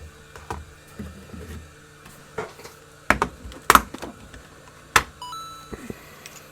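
Tools and gear being picked up and set down on a workbench: scattered clicks and a few sharp knocks, the loudest near the middle. About five seconds in comes a short electronic beep that steps up in pitch.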